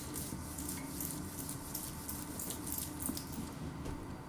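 Faint close-up chewing of a mouthful of thin-crust pizza: soft, irregular little clicks and squishes from the mouth, over a low steady room hum.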